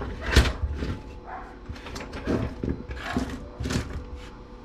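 A few sharp knocks and clatters of salvaged TV circuit boards and parts being handled on a workbench, the loudest about half a second in.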